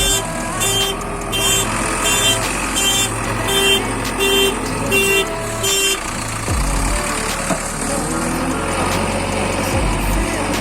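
Heavy machinery engine running steadily. For the first six seconds a pulsing beep repeats about every 0.7 s, like a reversing alarm.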